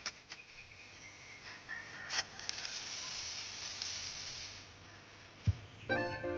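A faint, even hiss for a few seconds, then a short knock, and background music starts near the end.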